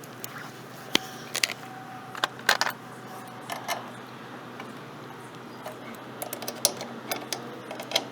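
Scattered sharp clicks and light clatter, a few louder knocks among them, over a steady low hum.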